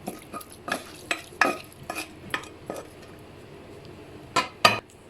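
Spoon scraping and clinking against a pot while cooked minced meat is scooped out and spread onto the pastry, with a string of short scrapes and taps, then two loud knocks close together near the end.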